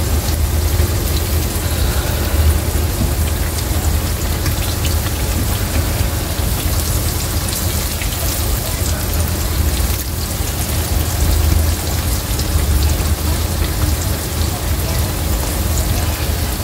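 Breaded green tomatoes sizzling and crackling in hot grease in a frying pan, a steady rain-like hiss with a low hum underneath.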